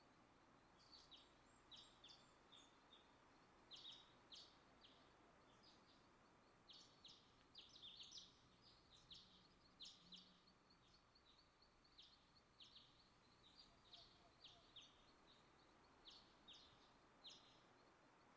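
Faint birds chirping in a forest: short, sharp, falling calls in irregular clusters, over a faint, steady, rapid high trill.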